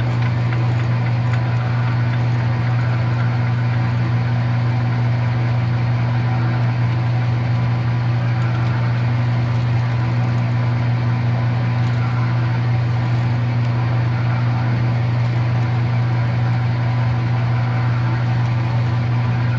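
Electric drill running steadily under load, drilling a hole through a metal part, with a constant low motor hum.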